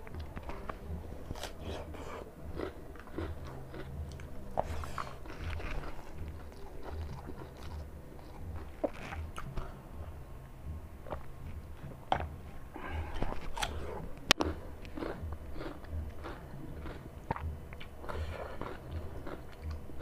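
A man eating rice and chicken curry with his hand, close to the microphone: chewing with many short wet smacks and clicks, and fingers working the rice on the plate.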